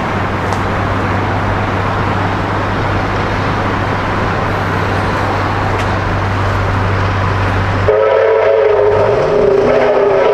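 A heritage train running past close by, a loud, steady rumble of wheels and machinery with a low hum. About eight seconds in the train sounds a loud multi-tone warning chord, held past the end.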